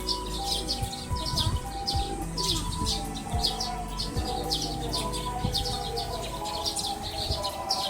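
Many small birds chirping busily, short rapid chirps one after another without pause.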